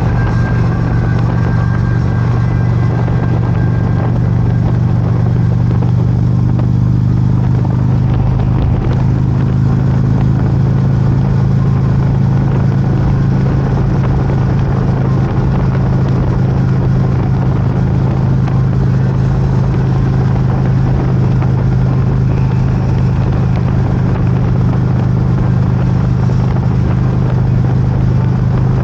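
Motorcycle engine running at a steady speed while riding, its drone holding an even pitch the whole time.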